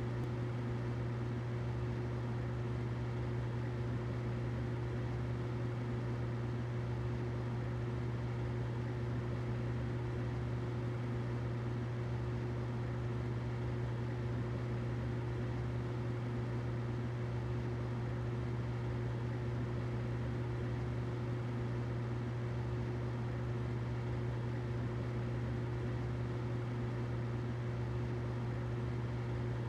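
Humidifier running: a steady low hum with a fainter higher tone over a soft hiss.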